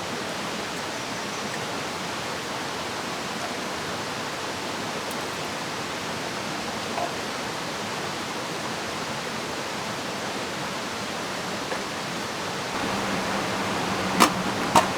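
Steady rushing of a flowing river, with rain. Near the end a low hum comes in, and two sharp knocks follow just before the end.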